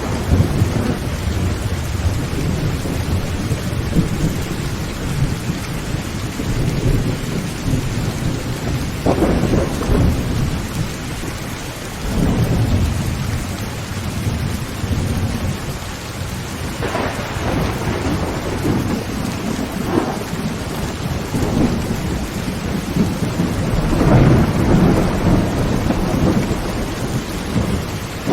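Heavy rain on a tin tent roof, a steady hiss with rolling thunder rumbling underneath. Several louder thunder peals swell up, about nine seconds in, a cluster around seventeen to twenty seconds, and a long one near the end.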